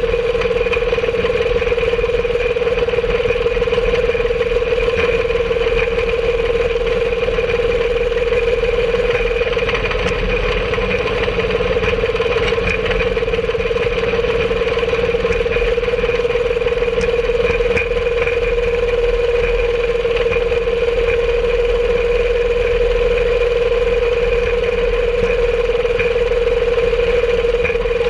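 The engine of a home-made rail cart running steadily as the cart travels along the track, holding a constant pitch throughout.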